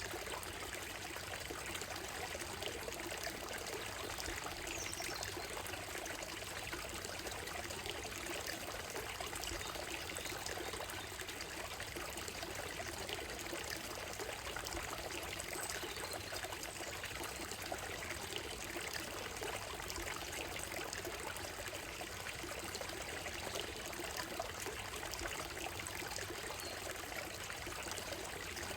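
Shallow stream running steadily over a gravel bed and stones, with a few faint, brief bird calls high above the water.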